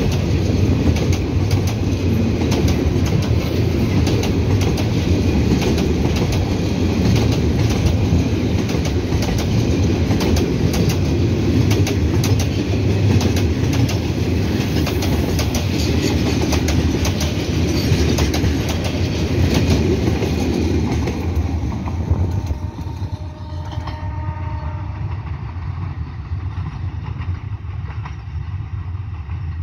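Loaded container freight train rolling past close by: a steady rumble of wagons with rapid clicking of wheels over the rail joints. About three quarters of the way through the sound drops off as the last wagons pass, leaving a fainter rumble.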